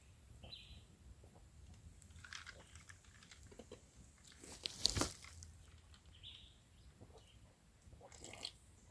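Faint mouth sounds of someone sipping and swallowing a homemade lime drink, with a louder sudden knock about five seconds in and two short high chirps.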